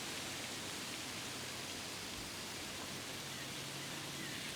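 Quiet outdoor woodland ambience: a steady, even hiss with no steps or knocks. Faint bird calls come in near the end.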